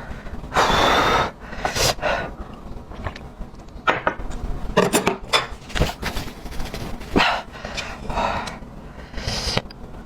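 Close-miked eating sounds: chewing and wet mouth noises in irregular bursts of a second or less.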